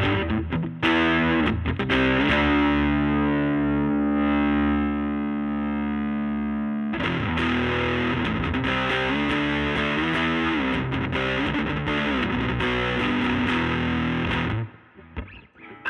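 Overdriven electric guitar with P90 pickups, played through the gain channel of a Laney Lionheart L5 Studio valve amp into a 15-inch Jensen Alnico speaker. A few struck chords, one left ringing for several seconds, then a run of chords cut off short about a second before the end.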